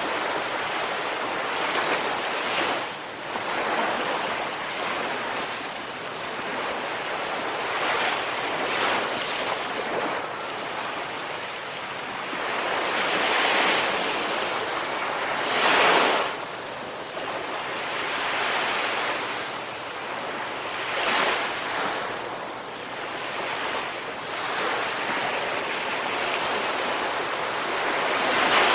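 Ocean surf breaking on a shore, a continuous wash that swells and falls every few seconds, with the biggest wave crashing about halfway through.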